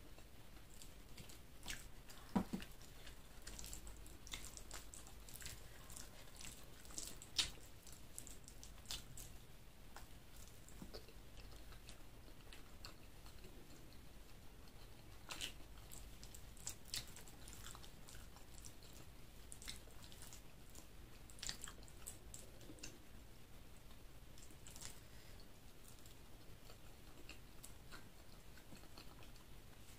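Close-up chewing and wet mouth sounds of someone eating chicken liver and gizzard with rice, soft and faint, with scattered small clicks; two sharper clicks stand out about two and a half and seven and a half seconds in.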